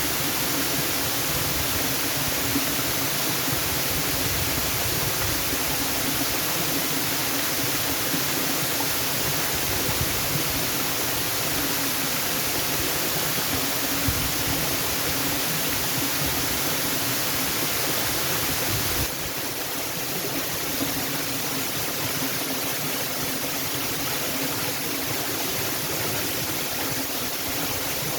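Waterfall: a steady rush of falling water that dips slightly in level about two-thirds of the way through.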